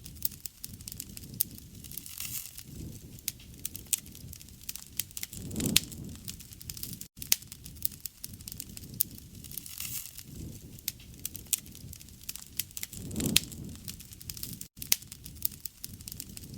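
Wood fire crackling: many sharp pops and snaps over a low rumble of flames. It is a short recording looped about every seven and a half seconds, with a brief dropout at each join.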